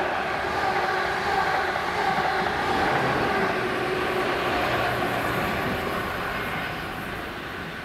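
A diesel passenger train passing close by: a steady loud running noise with several held tones, dying away near the end as it moves off.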